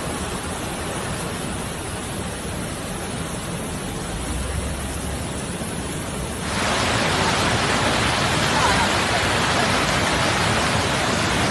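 A steady rush of heavy rain and running floodwater. It jumps to a louder, brighter rush about two-thirds of the way through.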